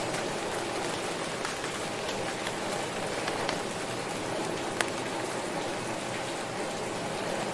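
Steady rainfall, an even hiss dotted with individual drops ticking, one a little sharper about two-thirds of the way through.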